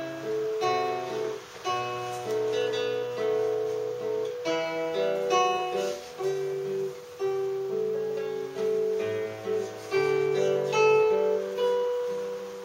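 Acoustic guitar playing an instrumental passage, with plucked notes and chords ringing over one another.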